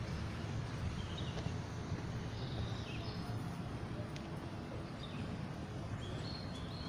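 Small birds chirping briefly and at irregular moments, several short high calls strongest near the end, over a steady low rumble of outdoor background noise.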